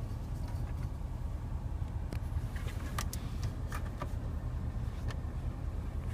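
Faint clicks and light knocks of the Porsche Panamera's dashboard cup holders being handled, a handful of them through the middle, over a steady low rumble inside the car.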